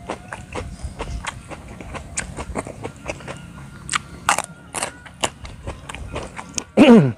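Crisp crunching and snapping of a raw young papaya stem being bitten, chewed and broken apart close to a clip-on microphone, heard as many short irregular cracks. Near the end, a brief loud vocal sound that drops in pitch.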